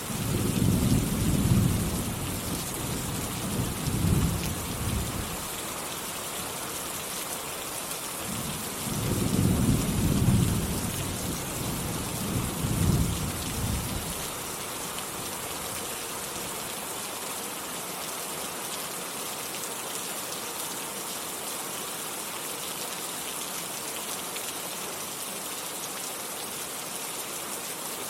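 Steady heavy rain with thunder: two long low rolls of thunder in the first half, each swelling and fading over several seconds, then rain alone.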